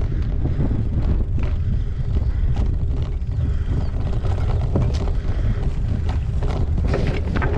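Wind buffeting a GoPro Hero8 action camera's microphone while riding a gravel bike, as a heavy, steady low rumble. Frequent short knocks and rattles from the bike and its tyres on the track run through it.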